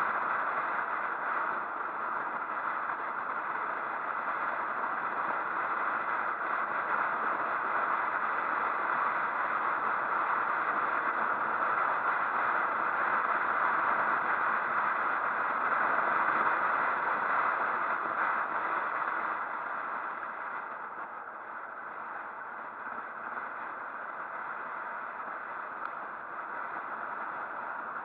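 Steady rushing wind and road noise from riding a motorcycle, easing off slightly about twenty seconds in.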